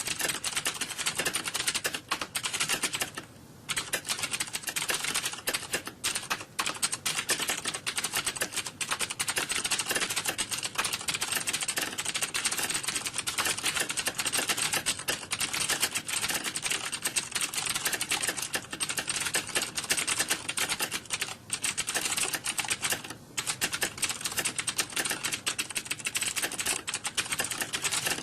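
Computer keyboard typing, with fast, continuous key clicks and a brief pause about three seconds in.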